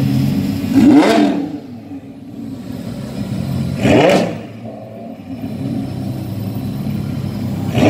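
Lamborghini Huracán's V10 engine idling, then blipped twice, about a second in and about four seconds in, each rev rising sharply and dropping back.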